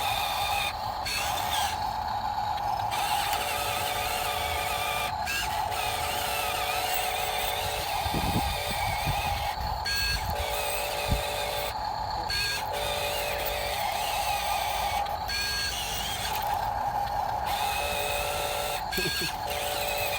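Heavy truck running steadily, with a continuous tonal drone broken by short gaps every second or two.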